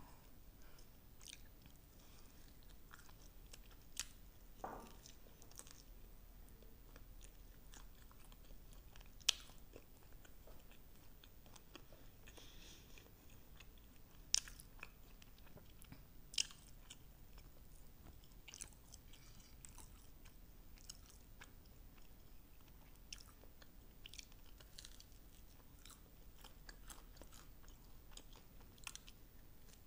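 Close-miked chewing and biting of sauce-coated fried chicken wings: soft wet mouth sounds broken by scattered sharp crunches and clicks, the loudest a few seconds apart near the middle.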